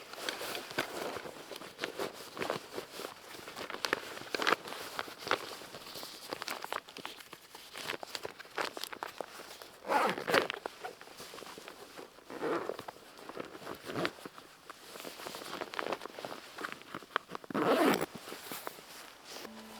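Irregular rustling, scuffing and handling noises, with a few louder scrapes about ten, twelve and eighteen seconds in.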